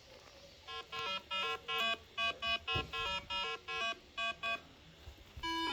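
A quick run of about a dozen short electronic beeps of changing pitch, like phone keypad tones, starting just under a second in. Background music with held notes begins near the end.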